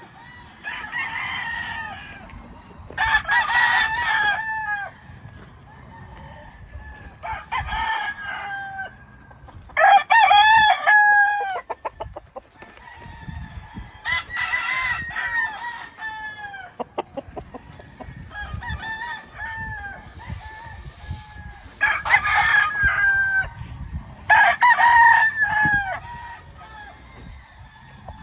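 Dan Gray Roundhead gamefowl roosters crowing one after another, about eight crows of a second or two each, some overlapping.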